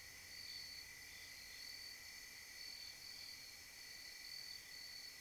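Faint chorus of night insects such as crickets: a steady high buzz with a higher trill that swells and fades about once a second.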